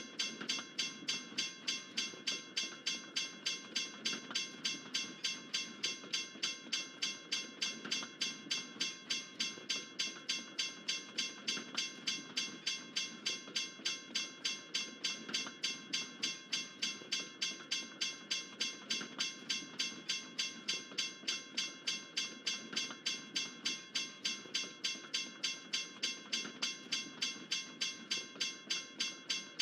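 Railroad crossing bell ringing steadily, about three strokes a second, over the low rumble of a freight train rolling past.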